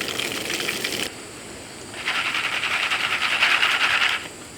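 Popcorn pot heating on a camp stove, giving a crackling sizzle with fine rattling. It fades after about a second, then comes back louder for about two seconds before the kernels start popping.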